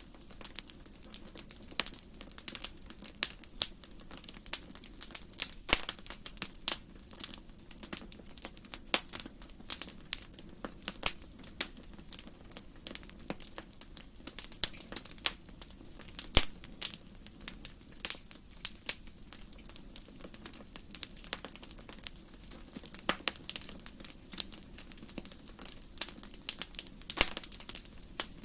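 Wood fire in a fireplace crackling, with frequent irregular sharp pops and snaps over a faint low steady hum.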